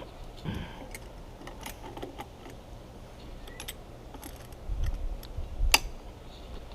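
Scattered small clicks and taps of hand tools and metal fittings as a high-pressure hose fitting on a watermaker membrane housing is tightened, with a few low bumps and one sharper click near the end.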